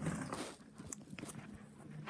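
Faint handling noise: a few small knocks and rustles as wooden toy trains are picked up and moved about.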